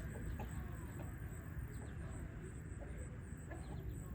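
Faint steady low rumble of background noise with a few brief, faint high chirps.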